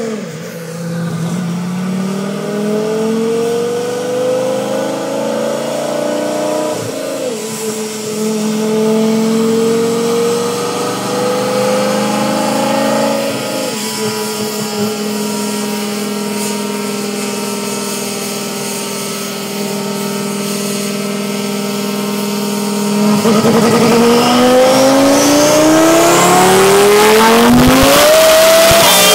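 Twin-turbo Lamborghini Gallardo V10 running on a chassis dyno: it rises in pitch through the gears, with pitch drops at upshifts about 7 and 13 seconds in, then holds a steady speed. About 23 seconds in it goes louder into a full-throttle pull, the pitch climbing steadily until it lets off just before the end.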